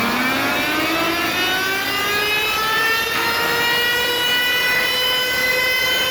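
A loud siren-like wail with many overtones, played through a car sound system's speaker wall, slowly rising in pitch and levelling off near the end.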